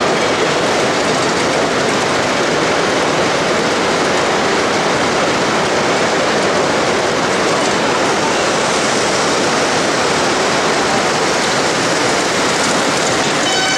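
Steady, loud hiss of steam escaping from a 5-inch gauge live-steam locomotive. In the last moment a pitched tone with several evenly spaced notes begins.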